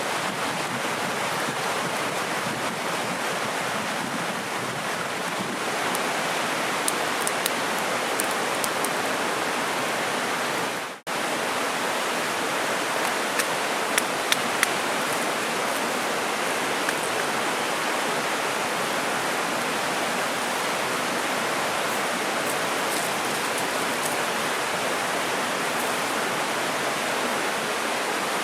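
Mountain river rushing steadily over rocks, a constant even rush of water. It cuts out for an instant about eleven seconds in, and a few faint ticks sit on top of it.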